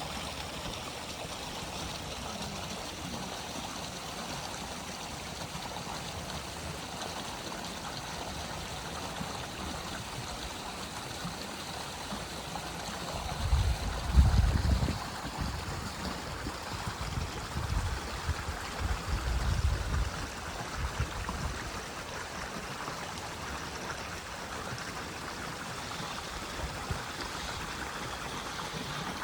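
Running water, a steady rushing flow like a stream, with a stretch of loud, uneven low rumbles near the middle.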